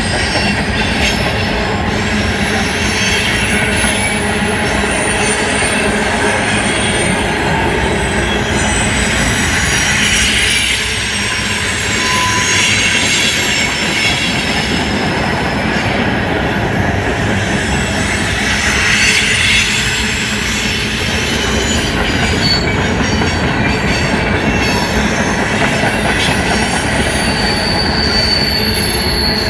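Freight cars of a long CSX manifest train rolling steadily past, a continuous rumble and rattle of wheels on rail, with thin, high-pitched wheel squeal rising and fading here and there.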